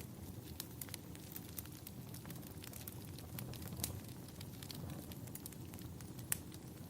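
Wood fire burning in a fireplace: a steady low rumble with frequent sharp crackles and pops, two louder pops about four and six seconds in.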